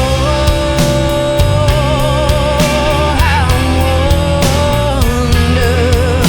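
Live rock band playing an instrumental passage: a sustained lead melody with wavering vibrato over bass, drums and cymbals.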